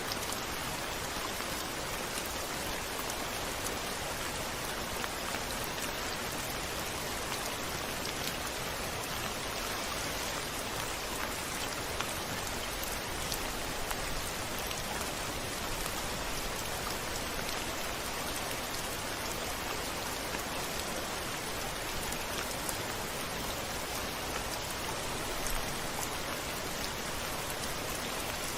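Steady heavy rain, with scattered drops ticking against a window pane.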